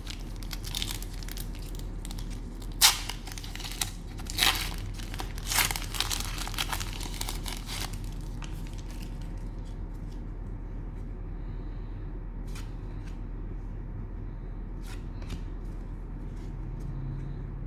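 Cellophane wrapper of a trading-card cello pack being crinkled and torn open, in a dense run of crackles over the first eight seconds, then only a few scattered light clicks.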